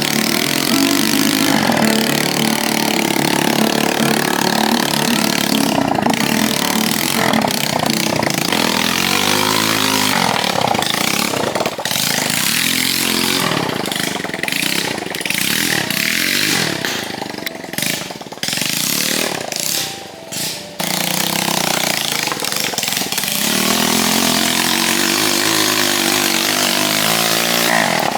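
Dirt bike engine revving hard at high rpm, held near full throttle for long stretches, with the revs sagging and climbing again in places and a brief drop about twenty seconds in.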